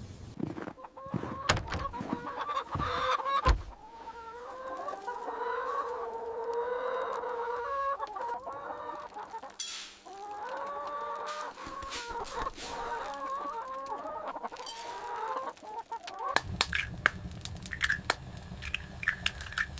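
Chickens clucking and calling in a long run of wavering calls, with sharp clicks and knocks near the start and again near the end.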